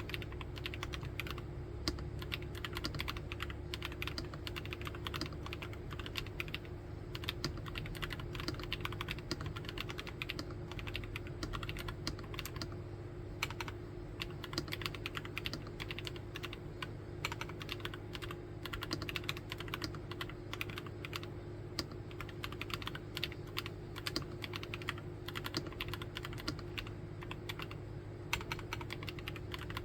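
Nuphy Field75 mechanical keyboard being typed on: continuous fast typing, many keystrokes a second, at an even pace.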